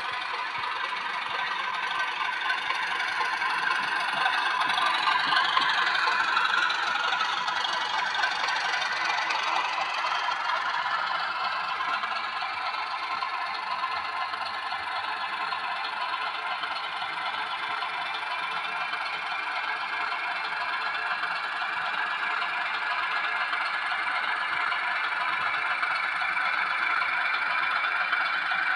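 O gauge model train running along the track: a steady whir with rattling and clattering of wheels on rail. It swells about four to seven seconds in, with a whine that slides up in pitch.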